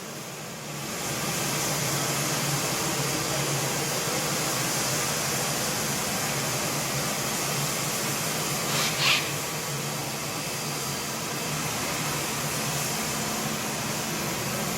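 ICE i20 walk-behind wet floor scrubber running with a steady whirring hum that builds up about a second in. A brief hiss about nine seconds in.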